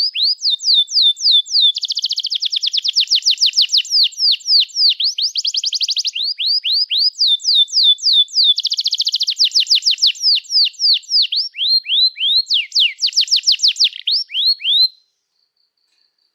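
Domestic canary singing a long song: series of quick, high, downward-sweeping cuit-cuit chirps alternating with rapid buzzy trills. The song cuts off suddenly near the end.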